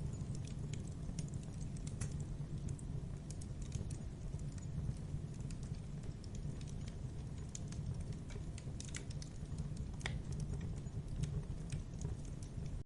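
Campfire burning: irregular sharp crackles and pops from the burning wood over a steady low rumble from the flames.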